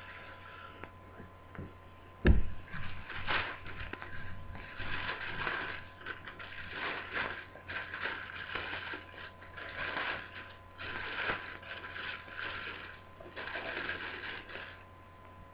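A knock about two seconds in, then a plastic bag being handled and crinkling in repeated short bursts.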